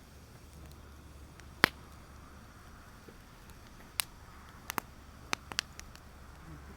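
Wood fire crackling: sharp pops, one loud snap about a second and a half in and a cluster of smaller pops around the fifth second, over a faint steady hiss.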